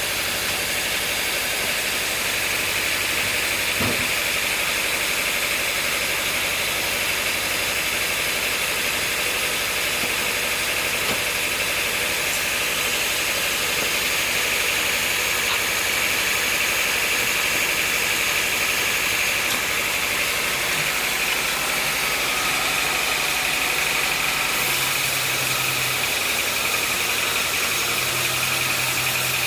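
Sawmill machinery running steadily, with a constant high whine over a broad noise, and a low hum coming in near the end.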